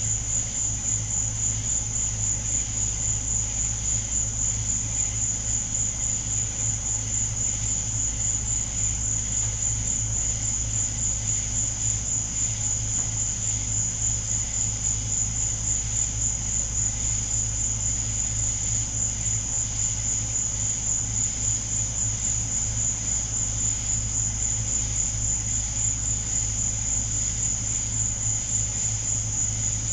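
Night insects such as crickets chirping in a steady, high, rapidly pulsing trill, over a steady low hum.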